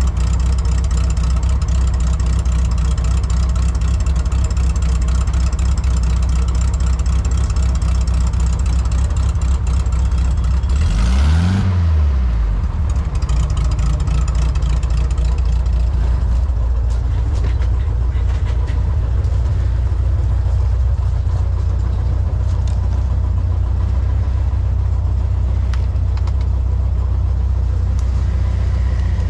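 Vehicle engine running steadily while driving, a continuous low rumble. About eleven seconds in there is a brief louder sweep that rises and then falls in pitch.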